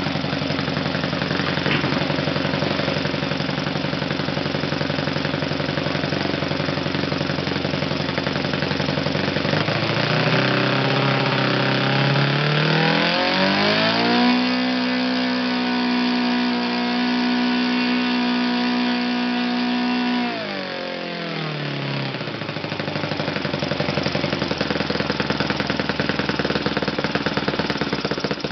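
Kalt FC-1 four-stroke glow model engine turning its propeller, running at low idle. About ten seconds in, the throttle opens and the engine rises smoothly to high speed, holds steady for about six seconds, then drops quickly back to a steady idle.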